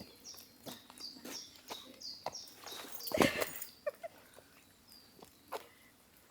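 Small bird calling with short, high, falling chirps, repeated every second or so, over scattered light taps. A louder, brief noisy sound comes about three seconds in.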